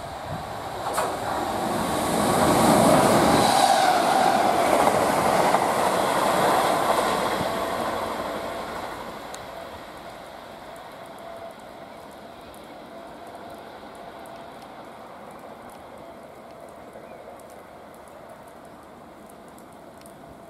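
GWR Class 769 Flex multiple unit passing through, its wheels running on the rails. The sound swells to its loudest a few seconds in, then fades slowly as the train draws away, leaving a faint steady hum.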